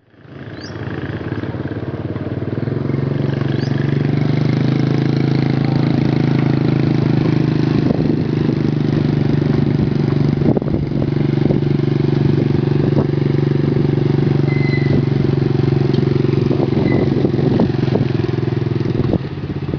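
Small motorbike engine running at a steady cruising speed while riding, building up over the first few seconds and easing off near the end. Occasional short clatters and knocks come through, as from bumps in the road.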